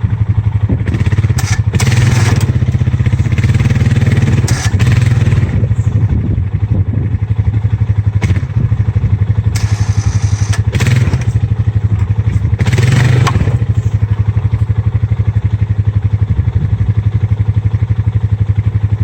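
A vehicle engine running steadily under load with a pulsing rhythm while straining on a heavy-duty tow strap, trying to pull a bent ATV frame straight. Several brief bursts of louder noise, like revving or clatter, rise over it.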